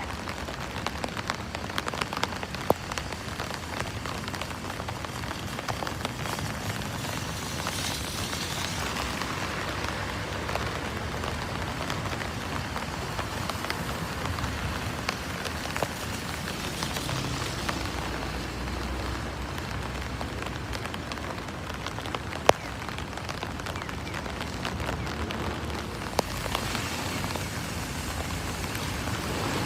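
Heavy rain falling in a steady hiss, with the patter of drops striking close by and a few sharper single drop knocks, the strongest about 22 seconds in.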